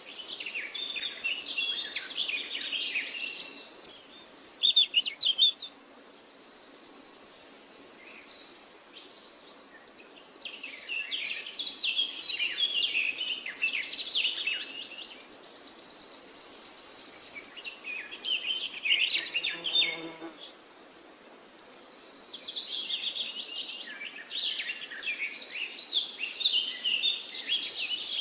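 Small birds singing in bouts of quick, twittering chirps that come and go every few seconds, with a high, steady insect-like buzz in the gaps between bouts.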